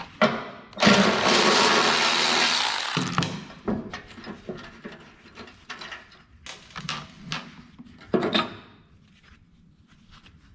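A power tool runs in one steady burst of about two and a half seconds, loosening the carriage-bolt nuts that hold a snowblower's skid shoe. Scattered metal clicks and clanks follow as the loosened parts are handled.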